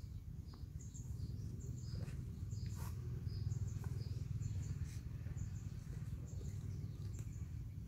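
Small birds chirping in short, high repeated notes over a steady low rumble, with a few faint clicks.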